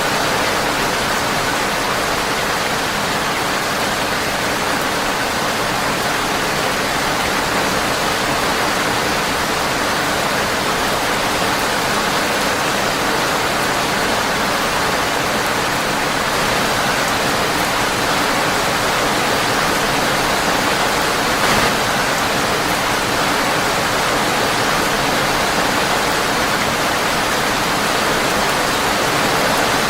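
Rain falling steadily on a windowpane, an even hiss of many drops with no pauses, and a single faint click about two-thirds of the way through.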